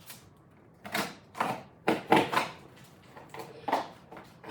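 A cardboard package being opened by hand: a handful of quick ripping and scraping noises of tape and cardboard, the loudest about two seconds in.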